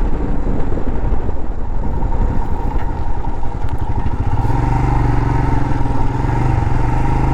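Motorcycle engine running on the move. About four seconds in, the engine note grows stronger and steadier.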